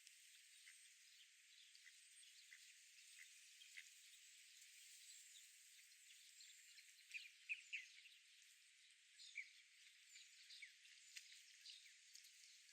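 Faint park ambience: a steady high hiss with scattered small bird chirps and ticks, a few louder chirps close together about seven seconds in.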